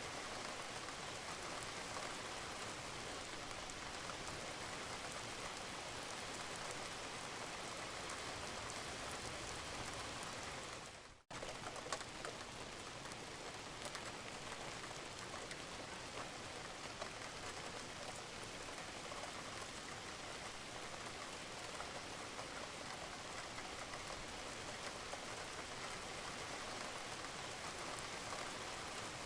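Steady rain falling on a roof, with scattered water drops dripping. The sound dips out almost to silence for a moment about eleven seconds in, then comes straight back.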